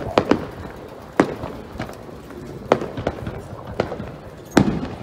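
Fireworks shells bursting: sharp bangs at irregular intervals, three in quick succession at the start and a loud one near the end.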